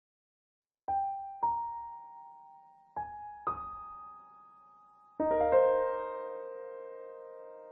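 Slow, soft piano melody after a second of silence: a few single notes struck one at a time, each left to ring, then a fuller chord about five seconds in that slowly fades.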